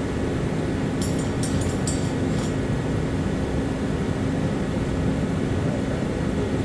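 Power drill running steadily under load, boring a hole with a pilot-bit cutter. A short cluster of sharp clicks comes about a second in.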